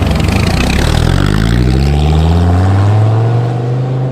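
Dodge Viper V10 with a custom muffler-delete exhaust accelerating hard, its note rising steadily in pitch for about three and a half seconds, then easing off near the end.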